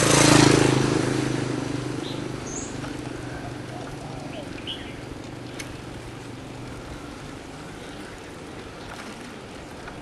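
A motor vehicle passes close, its engine hum fading away over the first few seconds, leaving steady street noise. A few brief bird chirps come through.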